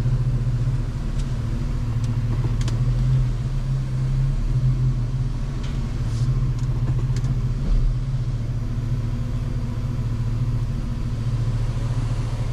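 Ford Mustang's engine running steadily at low revs, a continuous low rumble, with a few faint ticks over it.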